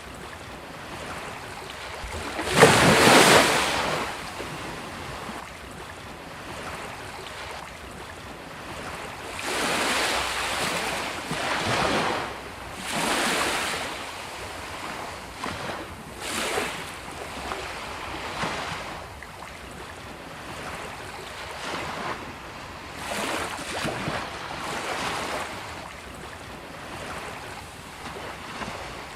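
Sea waves breaking on a beach, each surge of surf swelling and washing back every few seconds, the loudest crash about three seconds in.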